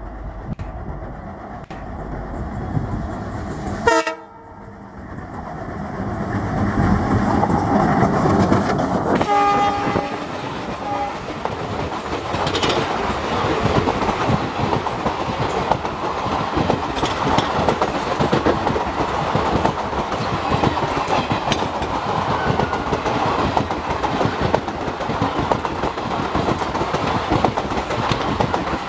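A train passing: a sharp loud knock about four seconds in, a short horn blast about nine seconds in, then the steady rumble and clatter of wheels over rail joints.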